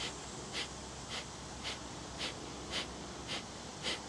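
Rhythmic forced nasal exhales of kapalabhati breathwork: short, sharp sniffs out through the nose, about two a second, each driven by a pump of the belly.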